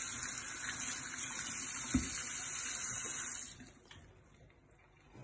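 Water running from a tap for about three and a half seconds, then shut off, with a single knock about two seconds in.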